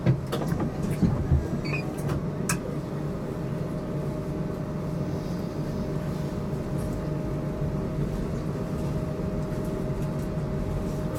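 HTM GTL8 articulated tram running, heard from inside the car: a steady low rumble of wheels on rail with a constant electrical hum, and a few short clicks and knocks in the first couple of seconds.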